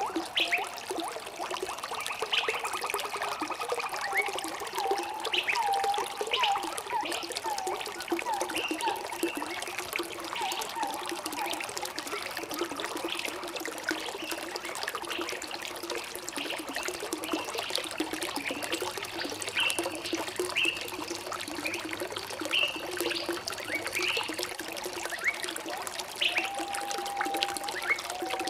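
Running water trickling and pouring, with birds singing and chirping over it: a quick series of rising notes a few seconds in, scattered high chirps, and a held whistled note near the end.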